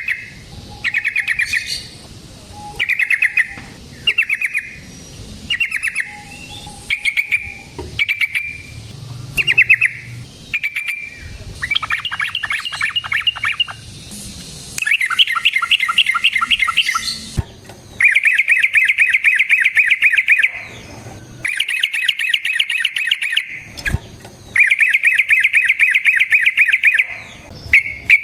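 Yellow-vented bulbul (trucukan) singing: short bubbling phrases about once a second, then from about twelve seconds in faster rattling trills, and in the second half long rolling trills of two to three seconds each.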